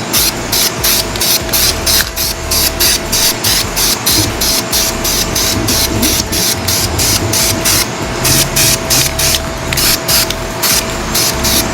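Aerosol spray can of Chevy orange engine paint hissing as the intake manifold is sprayed, over background music with a steady beat.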